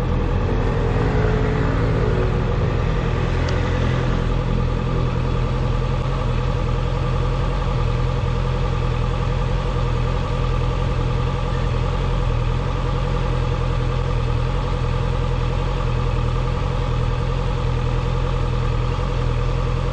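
Honda CB650F's inline-four engine running at a steady speed while riding. The engine note eases down over the first couple of seconds and then holds steady.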